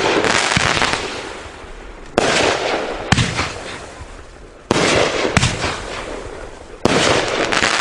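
Brightstar 'Boom Shacka Lacka' 500-gram firework cake firing its shots, a loud bang every couple of seconds, each followed by a fading crackle and hiss of the aerial bursts.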